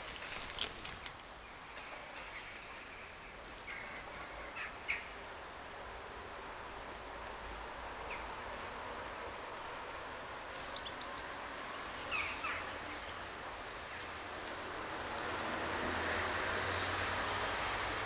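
Garden birds calling in short, sharp chips and calls, one very loud about seven seconds in, over steady rain; the rain grows louder near the end.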